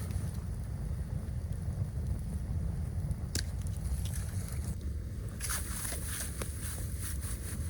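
Storm wind rumbling steadily on the microphone. Scattered sharp crackles and clicks come over it, one a little after three seconds and a cluster in the second half.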